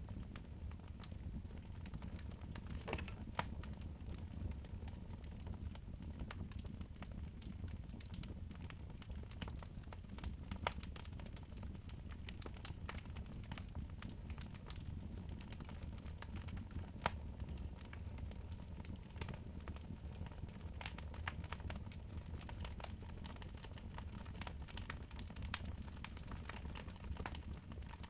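Wood fire burning in a fireplace: a steady low rumble of the flames with irregular crackles and pops, a few sharper snaps standing out.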